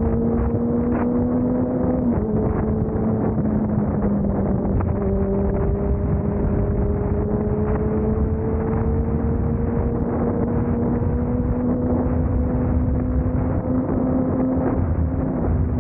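Vehicle engine running hard on the road, its note climbing slowly and dropping at a few gear changes, with wind rushing over the microphone.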